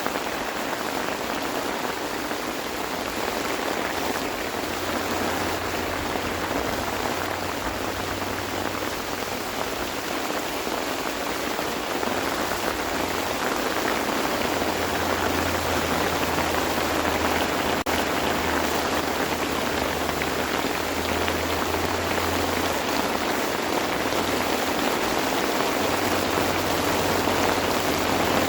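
Steady rain falling, an even hiss that grows slightly louder toward the end, with a faint low hum coming and going underneath.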